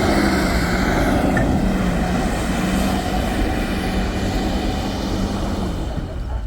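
Pickup truck engine held at high revs under load in mud, a steady drone with a wash of noise over it, dropping off near the end.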